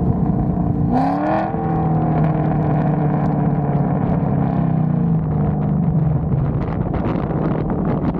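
Ford Mustang GT V8 with aftermarket headers and exhaust: the revs climb about a second in, hold, then drop back around five seconds in.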